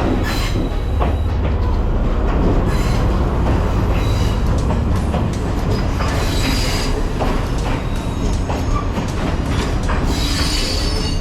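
Passenger train running on the rails: a steady heavy rumble with the clicking and rattling of wheels over the track, and brief high metallic wheel squeals four times.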